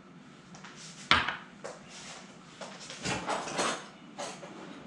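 Kitchenware handled on a counter: a sharp knock about a second in, then a run of clinks and clatters around three seconds in.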